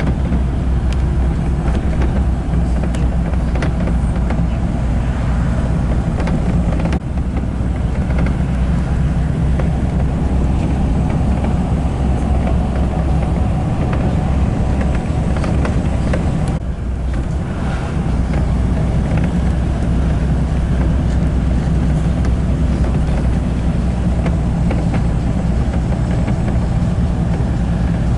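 Steady low rumble of a moving vehicle heard from inside, dropping briefly about two-thirds of the way through.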